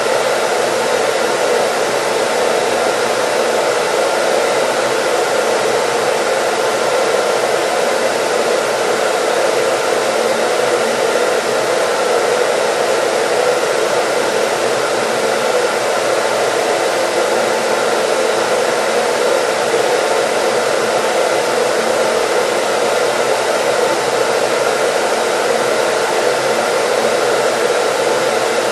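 Hair dryer running steadily: an even blowing noise with a faint motor hum. It does not change at any point.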